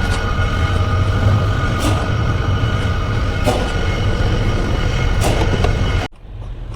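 A truck running steadily, with a strong low hum and a faint click about every second and a half to two seconds. The sound cuts off abruptly about six seconds in.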